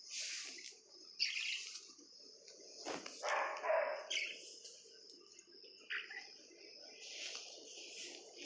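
Pet lovebirds chirping: shrill chirps come about every second over a constant high chatter. A sharp click comes about three seconds in, followed by a louder, lower sound.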